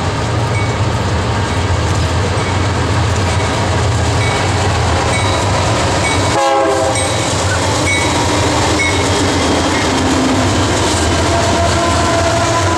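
Diesel locomotives of a BNSF double-stack freight train passing close, their engines running loud and steady. The sound breaks off for a moment about halfway through, and steady high tones come in near the end as the trailing units go by.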